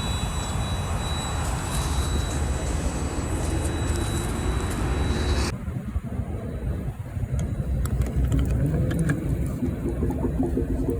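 Vehicle engine noise. It changes abruptly about five and a half seconds in, after which there are scattered clicks and a rising engine tone near the end.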